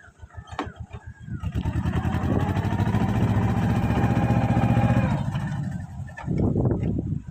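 Mahindra Jivo 245 DI tractor's diesel engine thudding at low revs, then picking up speed about two seconds in and running hard under throttle, easing off briefly near the end before picking up again.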